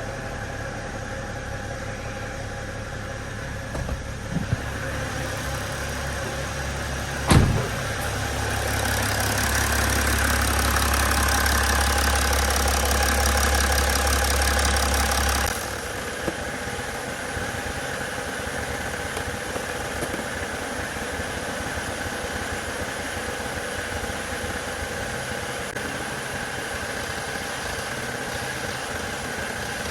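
BMW 525 diesel engine running at idle. A sharp click comes about seven seconds in, then the engine runs louder for about seven seconds before dropping back suddenly to a steady idle.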